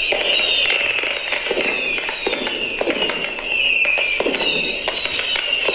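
Fireworks sound-effect recording playing: a string of rocket whistles, each falling in pitch, about one a second, over pops, bangs and crackling.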